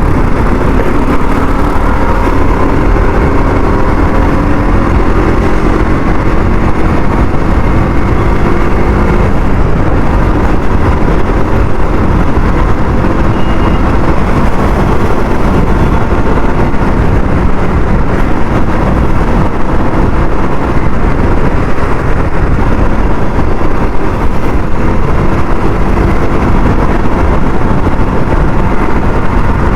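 Motorcycle engine, a KTM RC 200 single-cylinder, running steadily while riding, its pitch drifting slowly up and down, under a heavy rush of wind on the helmet-mounted microphone.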